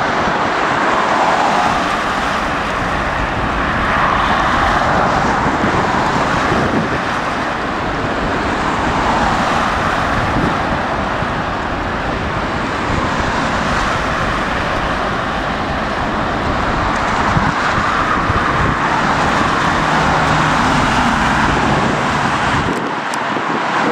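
Steady jet engine noise of an airliner taking off from the far runway, a broad rush that swells and eases slowly.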